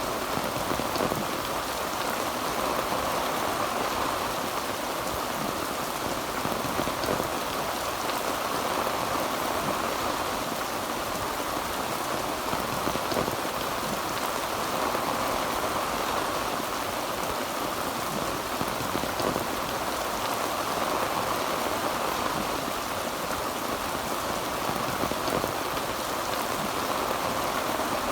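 Heavy rain drumming steadily on a tin roof, a dense even patter of drops with no thunder.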